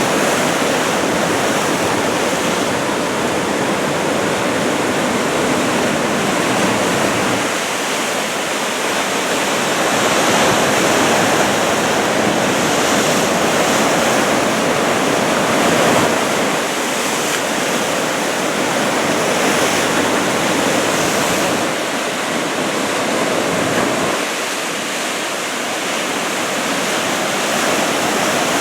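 Ocean surf breaking continuously on a post-typhoon swell. The rushing noise swells and eases every few seconds as waves come in.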